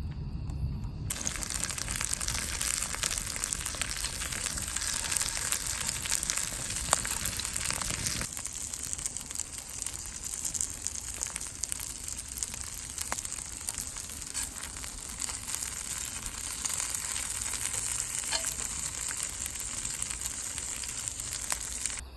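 Food sizzling in a hot pan: a steady frying hiss scattered with small pops, starting abruptly about a second in, with its low rumble dropping away about eight seconds in.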